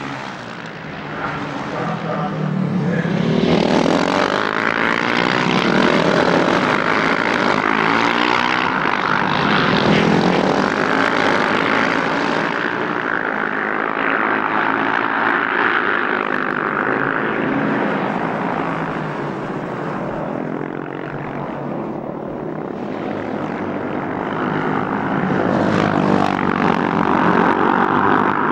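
A pack of KTM 690 Duke single-cylinder race motorcycles running hard past the trackside microphones, several engines overlapping, their pitch rising and falling as they pass. The sound swells about four seconds in, eases around twenty seconds and builds again near the end.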